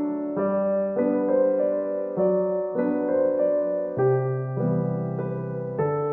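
Soft background piano music: a slow, gentle melody with sustained chords, the notes and chords changing about every half second to a second.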